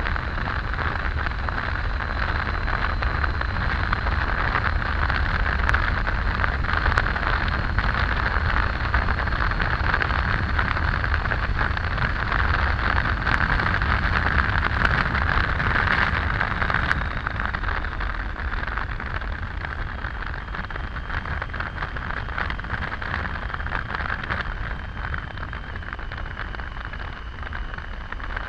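Wind rushing and road noise from a Triumph Tiger 800 motorcycle riding at speed, with a deep rumble underneath; it eases slightly a little past halfway.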